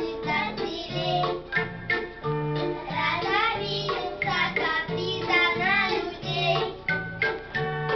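Children singing a song to an electronic keyboard accompaniment with a bass pulsing about twice a second.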